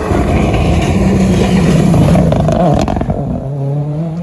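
Rally car engine running hard at high revs as the car passes close by; its note drops about three seconds in as it goes past, leaving a steadier, lower engine note.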